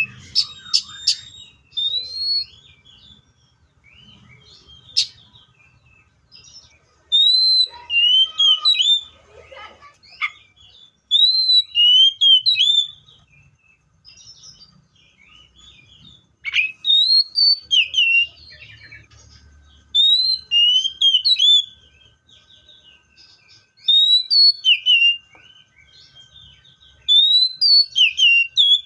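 Seychelles magpie-robin singing: repeated short phrases of clear, rising and falling whistled notes, each phrase a second or two long with brief pauses between.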